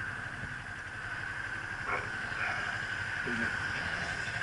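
Motorcycle engine idling steadily while the bike waits to pull off, with a short bark-like call about three seconds in.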